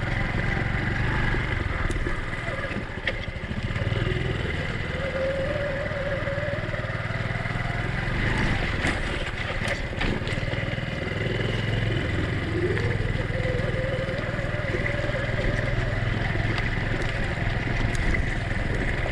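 Honda Cub's small single-cylinder four-stroke engine running under way at low speed on a rough track, its pitch rising and falling as the throttle changes, with a few short knocks.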